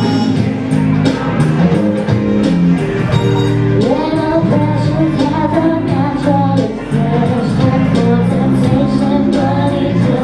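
Karaoke: a pop backing track playing with a singer's voice coming in over it about four seconds in.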